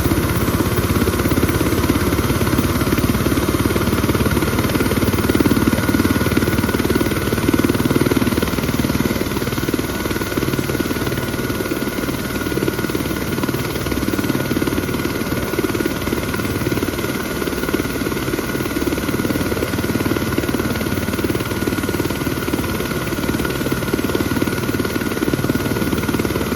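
Helicopter running steadily, with a fast rotor chop and a thin, steady high whine over it.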